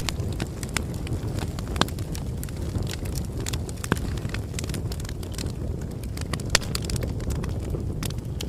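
Bonfire crackling: a steady low rush of burning wood with frequent sharp pops and snaps, a few louder pops about 2, 4 and 6.5 seconds in.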